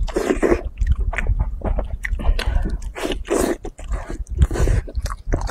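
Close-up eating sounds: a person biting and chewing meat from a spiced sheep's head, in irregular wet bites and smacks.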